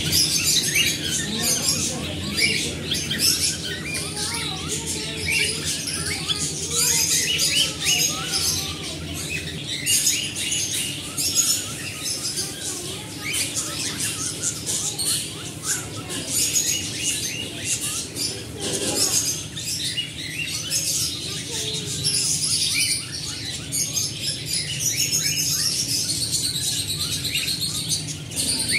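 Many caged pet birds, cockatiels among them, chirping and calling at once in a dense, unbroken chatter, over a steady low hum.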